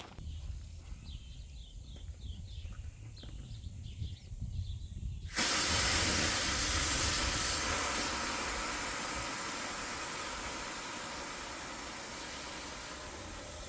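Low wind rumble with faint birdsong, then about five seconds in a sudden loud hiss of air rushing out of an opened valve on inflatable gear, which slowly fades as it deflates.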